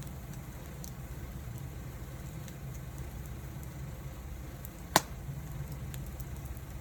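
Wood fire burning with a steady low rumble and scattered small crackles, and one sharp, loud pop about five seconds in.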